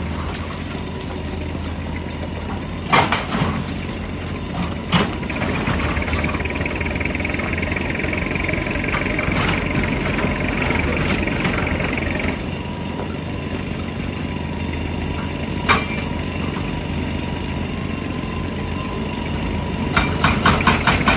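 JCB excavator's diesel engine running steadily, with three sharp knocks of steel on rock. Near the end the hydraulic rock breaker starts hammering in rapid, even blows.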